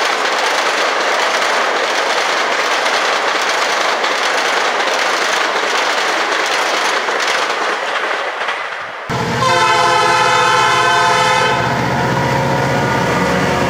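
A passenger train's cars rushing past over the rails: a steady rolling rail noise. About nine seconds in it cuts suddenly to a diesel freight locomotive blowing its multi-note air horn loudly for about two seconds, followed by the locomotive's engine and its hopper cars rolling past.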